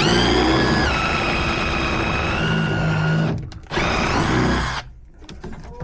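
Handheld electric power tool motor running in two bursts. Its whine drops in pitch about a second in as it takes load, cuts off just over three seconds in, then runs again for about a second before stopping.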